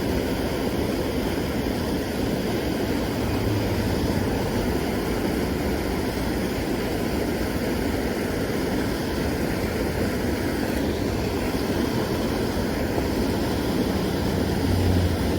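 A steady engine drone that holds an even pitch and loudness throughout.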